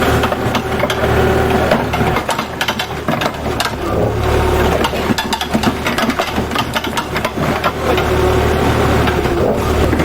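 An engine running steadily, with scattered clicks and knocks over it, thickest between about two and four seconds in.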